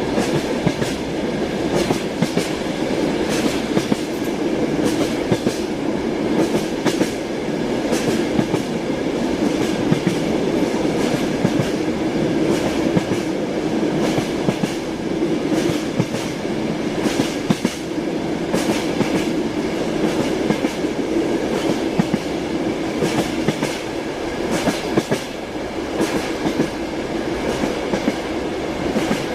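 Train wheels running on the rails at speed: a steady rumble with frequent clicks and knocks from the wheels over the track, and a faint steady whine above it.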